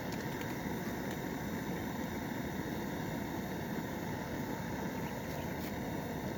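A steady, low rushing noise with a few faint ticks.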